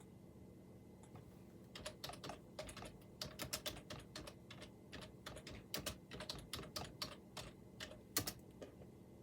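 Typing on a computer keyboard: an irregular run of key clicks that starts about two seconds in, with one louder click near the end.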